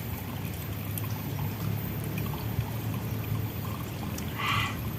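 Steady running water, with a short, sharper sound about four and a half seconds in.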